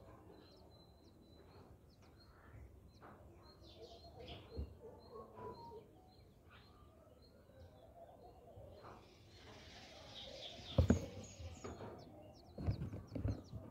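Small birds chirping, short high chirps repeated through the clip, over faint rustling and knocks. Later on a burst of hiss comes in with a sharp knock in the middle of it.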